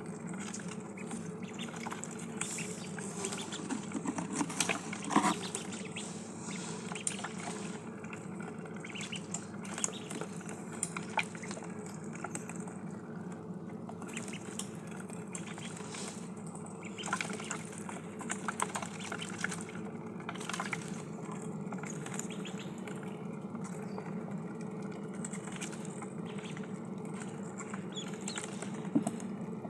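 Ducklings dabbling at water and food: wet slurping and splashing from their bills, with sharp pecking taps scattered throughout, over a steady low hum.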